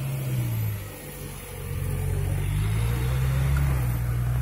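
Off-road 4x4's engine revving under load, easing off about a second in, then building up again.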